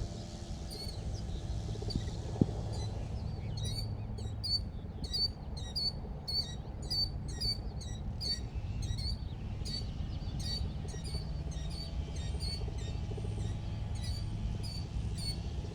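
Killdeer calling: a quick series of short, high, downward-sliding notes, about two or three a second, starting about a second in and thinning out in the second half.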